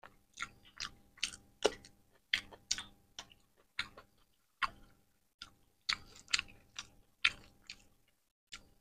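A person chewing a mouthful of curry and rice close to a clip-on microphone, with wet mouth clicks and smacks coming irregularly about two a second.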